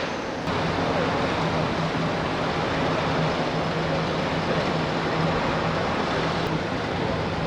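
Steady rushing noise with a low, even hum beneath it. It gets slightly louder about half a second in.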